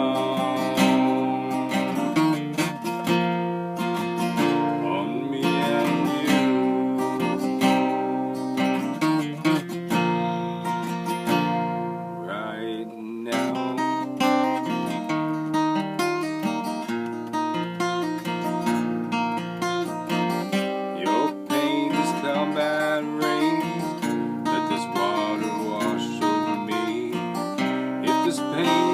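Acoustic guitar strummed in a steady rhythm, an instrumental passage of the song.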